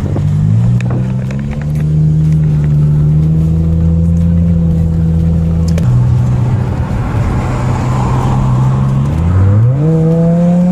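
Volkswagen Jetta engine heard from inside the cabin while driving. It holds a steady note through the middle, then revs up in a quick rising glide near the end.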